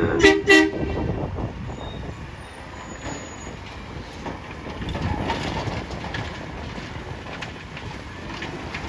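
A horn sounds, ending in two short toots in the first second, followed by the steady low rumble of heavy vehicles with scattered faint clanks.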